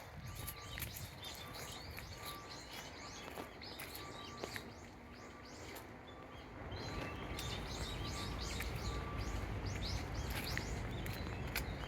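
A flock of small birds chirping with many quick, short calls over outdoor background noise. The low rumble in the background grows louder about halfway through.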